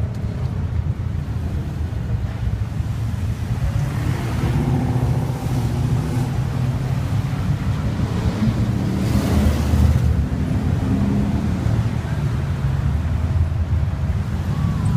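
Car driving in traffic: a steady low engine and road rumble, swelling louder about four and again about nine seconds in.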